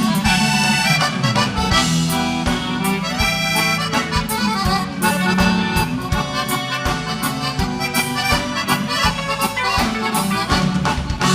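Instrumental break of live gaúcho dance music, led by a button accordion (gaita) playing the melody over bass and a steady drum beat.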